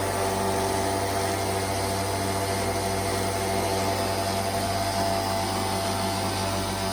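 IRIS vacuum cleaner running steadily: a constant motor hum with a strong rushing hiss of air.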